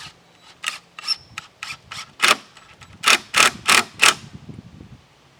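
A hand tool working lumber in a steady series of about ten sharp strokes, roughly three a second, getting louder, with the four loudest strokes near the end.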